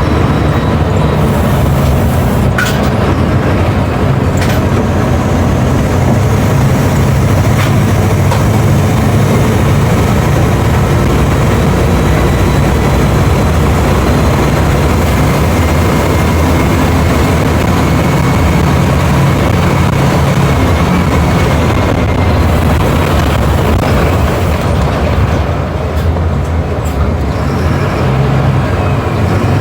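Mercedes-Benz OF 1721 BlueTec5 bus's four-cylinder diesel engine running with a steady low drone and a few light clicks.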